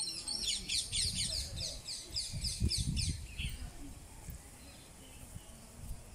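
Birds chirping: a dense run of quick, high, downward-sweeping chirps for the first three and a half seconds, then fading. A low rumble on the microphone runs under the chirps for a couple of seconds.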